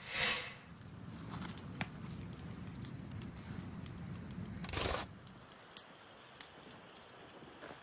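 Hay-and-branch bonfire burning: scattered crackles over a low rumble, with a short rushing burst at the start and another about five seconds in.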